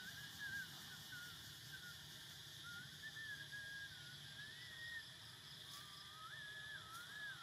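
Faint bird song: a thin warbling whistle that rises and falls in short phrases, over a steady high drone of insects.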